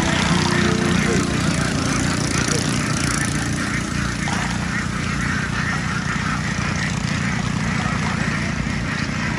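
A large flock of ducks calling and quacking together over a small engine running steadily with a fast low putter.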